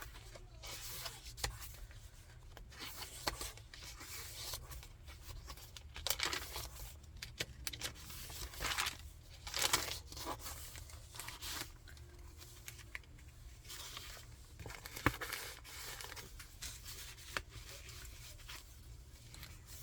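Thick paper pages of a chunky handmade junk journal being flipped, with irregular rustling and crinkling swishes and one sharp click about fifteen seconds in.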